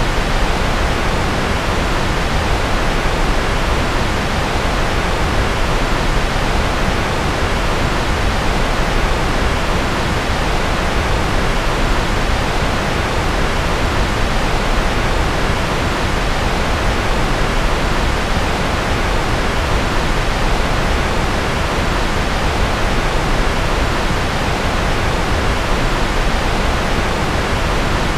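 Steady generated noise, a continuous even hiss with no change, with more weight in the low end than at the top.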